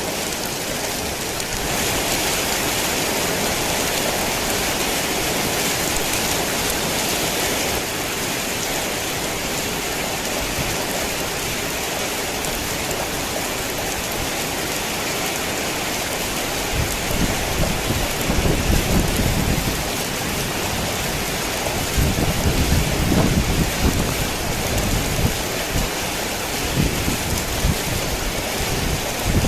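Heavy rain falling steadily. In the second half, low thunder rumbles in three rolling surges.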